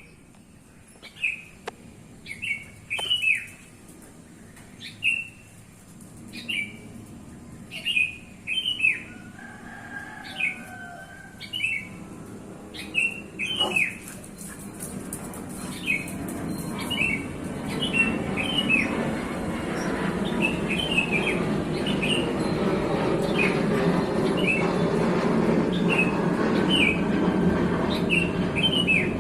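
Small birds chirping repeatedly, short falling notes about once a second, while the rumble of an approaching airplane rises steadily from about halfway through and grows loudest near the end.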